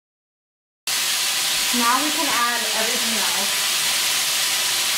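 Chicken pieces frying in oil in a pan: a steady sizzle that starts abruptly about a second in, with a brief voice under it near the middle.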